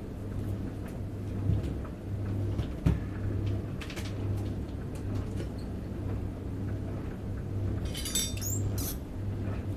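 Handling sounds while laundry additives go into a washing machine: a few sharp knocks and clicks, and a short burst of plastic rattling near the end, over a steady low hum.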